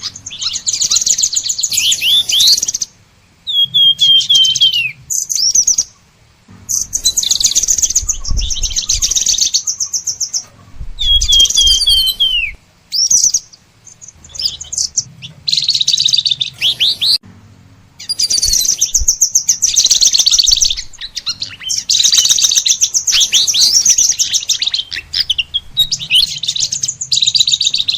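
Songbirds singing in bursts: fast, high chattering trills mixed with short series of downward-slurred whistled notes, broken by brief pauses. A few low thumps come near the middle.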